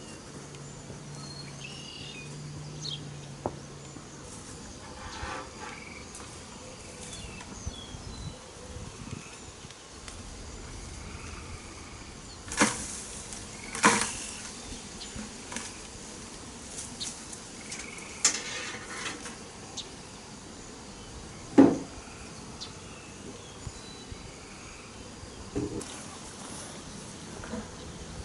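Honeybees from a freshly hived swarm buzzing around the hive, with a low hum for the first few seconds and again near the end. A few sharp clicks sound at intervals.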